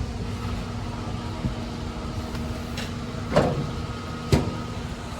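Swaraj 744 XT tractor's diesel engine running steadily at idle, with two short sharp knocks about three and four seconds in.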